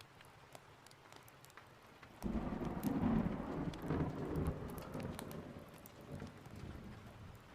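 Rain with faint crackling pops, then about two seconds in a roll of thunder breaks in suddenly, rumbles loudest for a second or two and slowly dies away.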